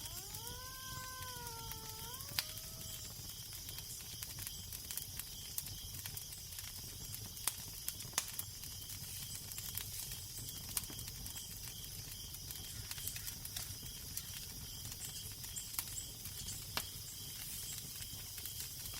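Fire crackling with scattered sharp pops over a steady low rumble and hiss of wind. In the first couple of seconds a drawn-out, wavering call rises, dips and rises again in pitch, then fades.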